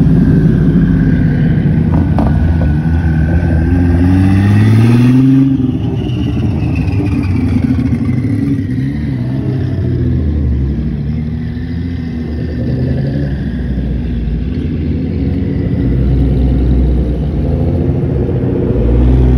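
Several sports cars pass slowly one after another, their engines running loud, with one revving up hard about four seconds in. Another engine rises close by near the end.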